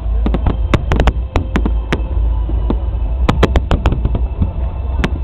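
Fireworks going off: a rapid, irregular string of sharp bangs and cracks, bunched in two flurries, over a steady low rumble.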